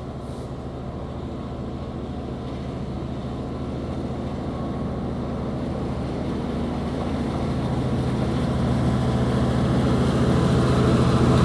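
Freightliner Class 66 diesel locomotive's two-stroke V12 engine running under load as it hauls a freight train, a steady low hum that grows steadily louder.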